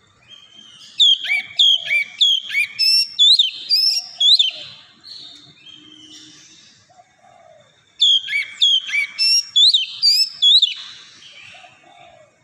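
Oriental magpie-robin (kacer) singing in two loud bursts of rapid, sharp whistled notes, the first starting about a second in and the second about eight seconds in, with a few fainter, lower notes in between.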